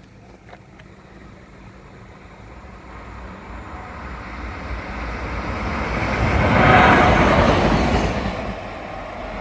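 Train approaching and passing the level crossing bound for Mossend: a rumble that builds steadily, is loudest about seven seconds in as it goes by, then begins to fade.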